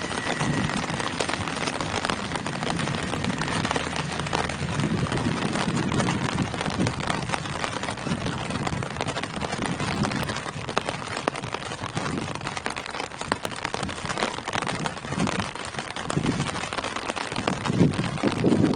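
Steady rain falling on tree foliage: an even hiss dense with sharp individual drop patters. Low swells come and go underneath, strongest near the end.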